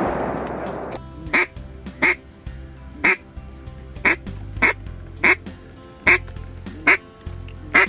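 Loud single duck quacks, about nine in a row, each short and spaced a little under a second apart, over background music. The echo of gunfire is still fading away in the first second.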